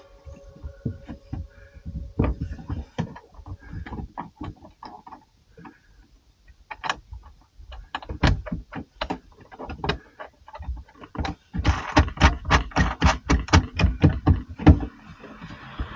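Irregular knocks and clicks of hands-on fitting work, turning into a fast run of sharp taps, about five a second, for roughly three seconds near the end.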